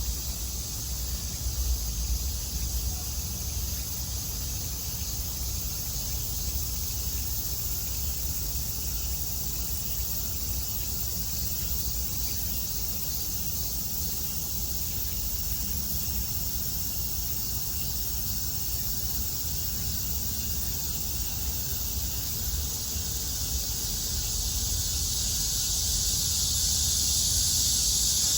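Cicadas droning in a steady high-pitched chorus that grows louder over the last few seconds, over a low steady rumble.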